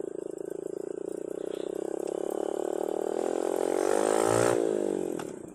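Small single-cylinder four-stroke 110cc mini dirt bike engine running with a steady putter. It revs up gradually over a couple of seconds, then drops back quickly near the end.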